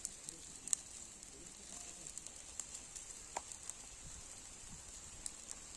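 Fish and chicken sizzling on a charcoal barbecue grill: a faint, steady high hiss with scattered sharp crackles and pops.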